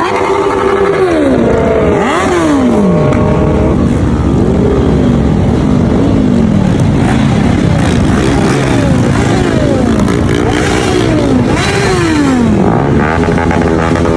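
Motorcycle engine revving up and down over and over, its pitch rising and dropping about every second or so.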